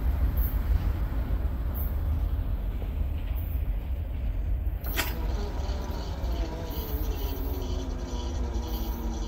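Low rumble of a freight train and vehicle noise, with a sharp click about five seconds in, after which a steady droning hum with a few even tones carries on.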